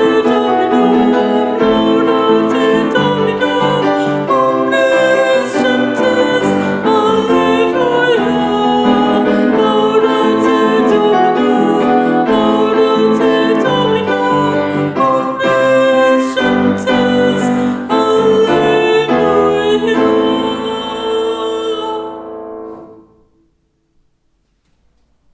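A Taizé chant sung with piano accompaniment, the final chord dying away about three seconds from the end, followed by silence.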